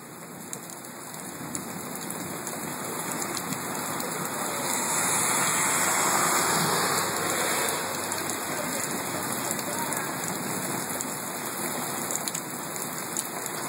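Heavy rain falling on a flooded street. A car drives past through the standing water, its tyres hissing through the spray, loudest about five to seven seconds in.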